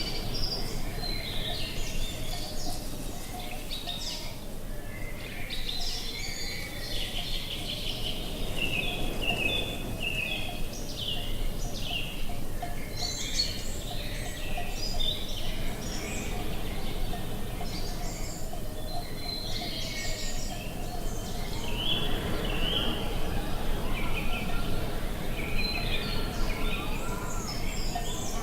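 Many birds chirping and singing in short, overlapping calls over a steady low background noise.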